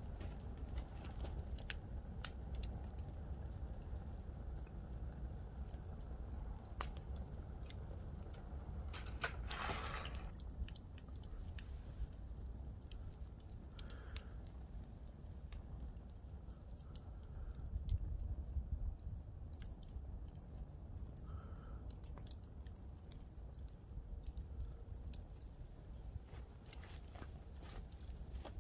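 Campfire wood crackling and popping: scattered sharp snaps over a low steady rumble, with a hiss lasting about a second roughly ten seconds in.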